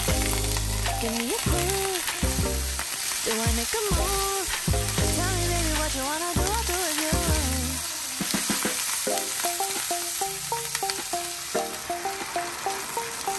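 Tofu cubes, mushrooms and snow peas sizzling in hot oil in a nonstick frying pan, stirred with a wooden spatula, over a background music track.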